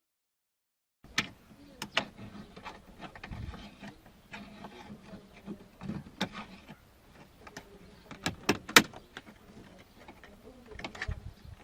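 Irregular sharp clicks and knocks, as of metal and plastic parts being handled, over a faint steady hum; the loudest knock comes near the end.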